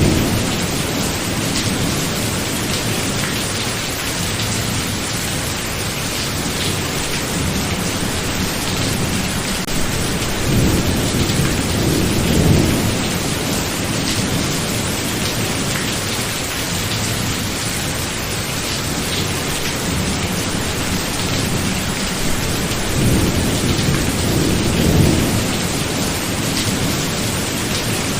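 Steady heavy rain with thunder rumbling, swelling twice.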